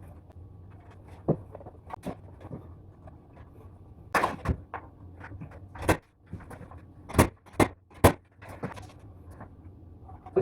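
Irregular sharp knocks and clacks from interior carpentry work, about eight of them spread unevenly, over a steady low hum.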